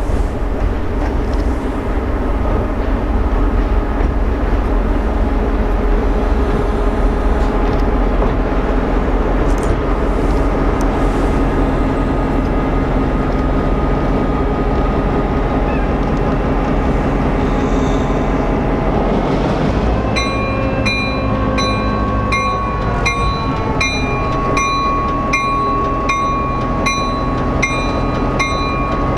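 Diesel-hauled freight train running by, its locomotive engine and rolling cars making a steady rumble. About twenty seconds in, a grade-crossing bell starts ringing about twice a second.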